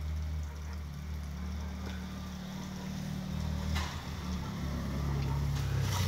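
A Tofaş car's engine running as the car drives slowly through deep snow toward and up beside the listener, a steady low hum that grows louder over the last couple of seconds. A couple of short sharp clicks come through, about four seconds in and again near the end.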